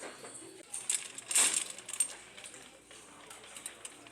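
Small hard home decor items clinking and jingling together as they are handled, loudest about a second and a half in and dying down after about two seconds.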